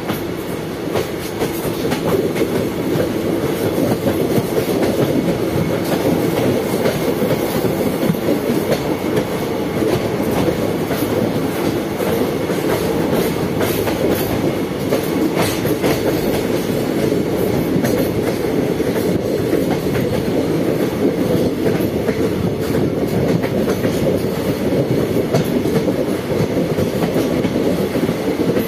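A train running along the track: a steady rumble with clickety-clack of wheels over rail joints and scattered clicks. It grows louder over the first few seconds, then holds steady.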